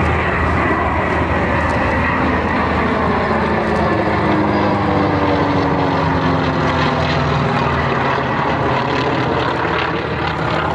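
A U.S. Navy F/A-18 Super Hornet jet and a propeller warbird flying a low head-on pass: a steady, loud aircraft roar with engine tones whose pitch falls as they go by, from about three seconds in.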